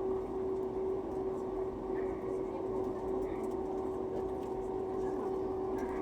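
Airbus A320 cabin noise: the engines run with a steady hum and a constant droning tone, over faint murmur of passengers' voices.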